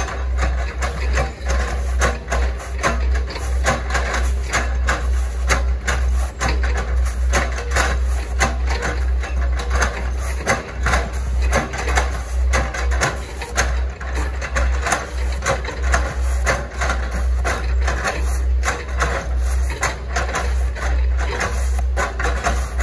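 Hitachi ZX110 swamp excavator working, its engine giving a steady deep rumble under rapid, irregular knocks and cracks of wood as the bucket chops up oil palm trunk.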